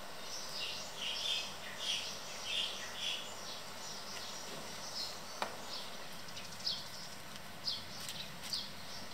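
Birds chirping in short repeated calls, close together in the first few seconds and then scattered, over a steady outdoor background hiss. One sharp click comes about halfway through.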